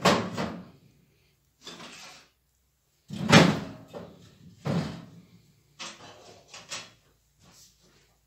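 Knocks and clatter of a wood-burning stove being readied for lighting: its metal door and firewood are handled in about five separate bursts, the loudest about three seconds in.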